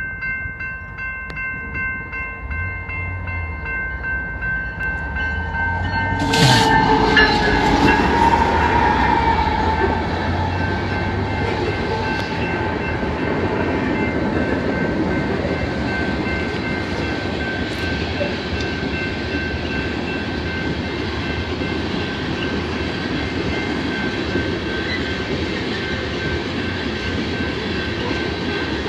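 Level-crossing bell ringing as a loaded coal train approaches; about six seconds in its diesel locomotives (an EMD SD70ACe leading three GE ES44ACs) reach the crossing in a loud surge, followed by the steady rumble and clatter of loaded coal gondolas rolling past, with the crossing bell ringing on.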